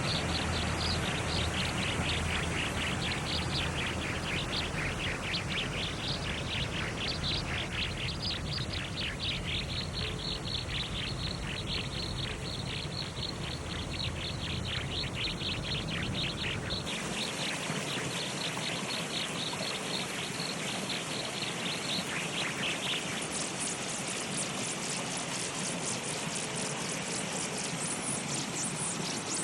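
Rapid, repeated high bird chirps over a steady hiss; the background changes abruptly twice, about two-thirds of the way through and again a few seconds later.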